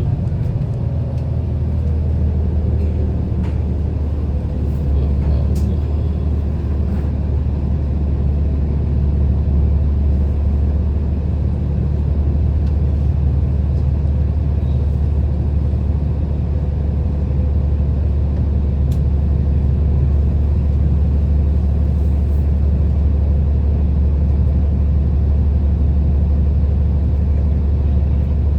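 A city bus's engine and running noise heard from inside the passenger cabin: a steady, loud low rumble with a faint steady hum above it and a few light clicks.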